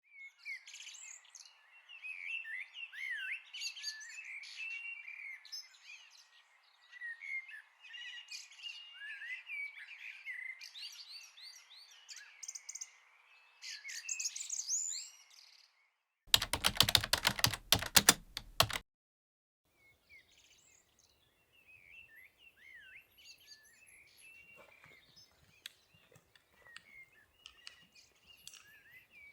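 Wild birds singing and chirping, a busy chorus of quick warbling calls. About sixteen seconds in, a loud burst of rapid clicks lasting about two and a half seconds cuts in. After it the birdsong carries on more faintly, with a few scattered clicks.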